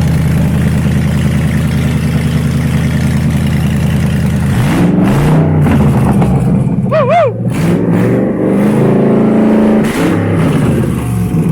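Ford Coyote 5.0L DOHC V8 running on an engine pallet: a steady high-speed run at first, then revved repeatedly from about halfway through, the pitch rising and falling several times.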